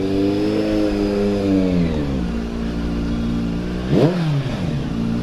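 Superbike engine being revved: a held rev that sinks back to idle about two seconds in, then one quick sharp throttle blip about four seconds in that drops straight back to idle.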